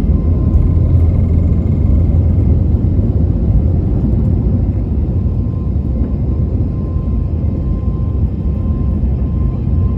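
Cabin noise of an Airbus A321neo climbing out after takeoff: a steady, loud low rumble of engines and airflow, with a faint steady whine above it.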